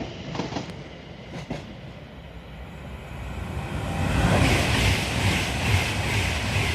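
Train wheels clicking over rail joints, then from about four seconds in a fast train rushes through the station, getting louder: an Avanti West Coast Class 390 Pendolino electric train passing at speed, mostly wheel and air noise.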